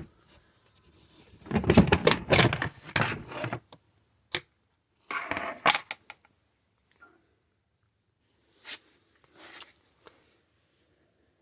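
Splash shield being pulled loose and handled, clattering and scraping about two seconds in and again around five seconds, then a few separate knocks near the end.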